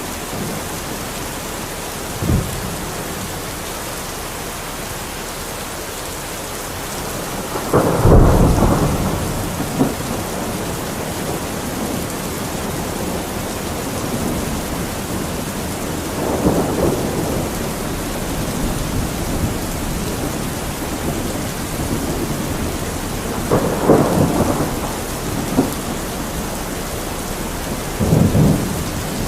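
Steady heavy rain with rumbles of thunder. The loudest rumble comes about eight seconds in, and three weaker rolls follow later, with a short sharp crack near the start.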